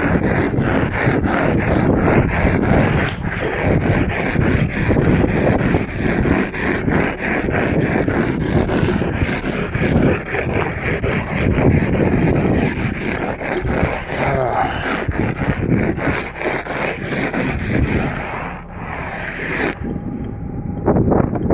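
Ice scraper scraping frost and snow off a vehicle's window glass in quick repeated strokes, stopping near the end.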